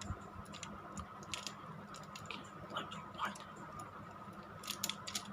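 Faint, scattered clicks and taps of a small plastic toy train being handled, with a faint steady hum underneath.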